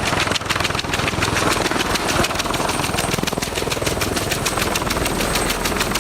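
Helicopter running close by, its rotor blades making a rapid, even chopping over the turbine noise.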